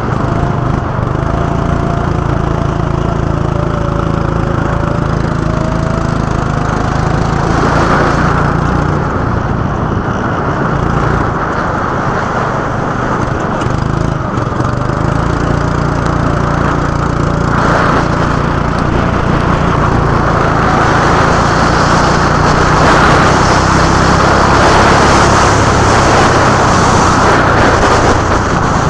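Go-kart engine running, its pitch rising and falling with the revs, over a steady noisy hiss that grows a little louder in the second half.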